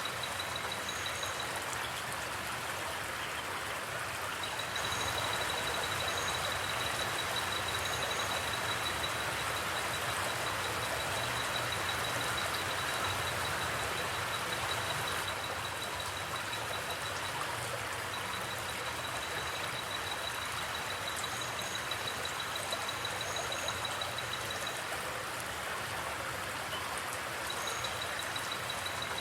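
Creek water flowing steadily through a forest, a continuous rushing hiss. A high, rapid trill runs through most of it, breaking off a few times, and a few brief high chirps come in pairs.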